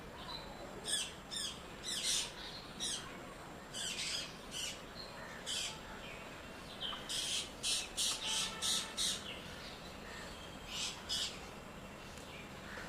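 Ringneck parakeets giving short, high-pitched squawking calls, scattered at first, then a quick run of about half a dozen calls past the middle, and two more near the end.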